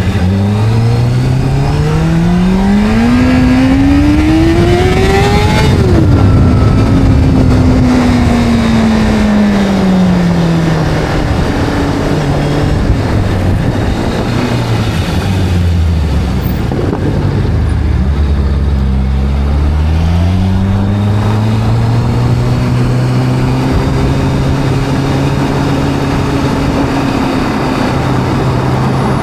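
Sport motorcycle engine revving up hard for about five seconds, dropping sharply, then winding down to a low idle. It pulls away again about twenty seconds in and settles into a steady cruise.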